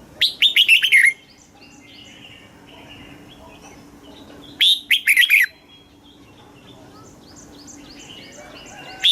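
Red-whiskered bulbul singing: two loud phrases of quick falling notes, each about a second long and about four seconds apart, with fainter chirps between them.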